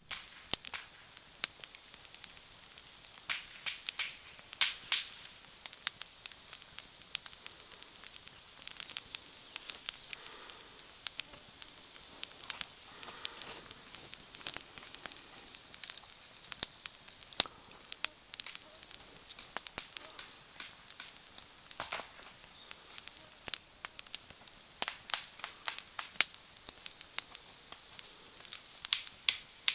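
Campfire crackling: irregular sharp pops and snaps from burning wood over a steady soft hiss.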